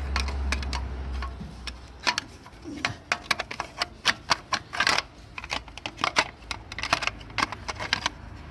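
Irregular metal clicks and clatter of a thin sheet-metal heat shield being handled and worked into place around the turbo and exhaust in an engine bay. A low hum stops about two seconds in.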